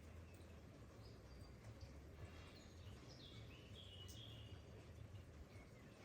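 Faint outdoor ambience of light rain: a soft even hiss over a low rumble, with a few short bird chirps in the middle.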